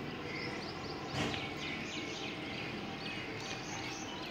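Outdoor background hum with small birds chirping over and over in quick, short, falling notes. A single brief knock comes about a second in.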